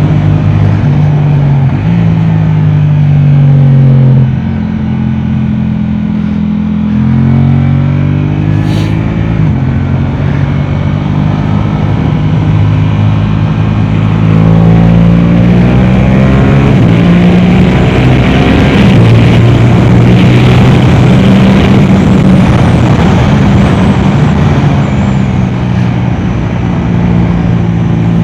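Yamaha R7's 689 cc parallel-twin engine through an Akrapovic exhaust, ridden hard. The revs climb and fall in steps as it shifts up and down through the gears, easing off briefly about four seconds in.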